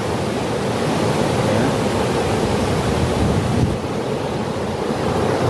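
Steady rushing noise of wind buffeting the microphone over a flowing river, with an uneven low rumble.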